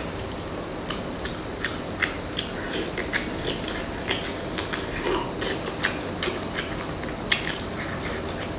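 Close-miked eating of spicy sauced seafood: wet mouth clicks and smacks come irregularly, one or two a second, as she chews.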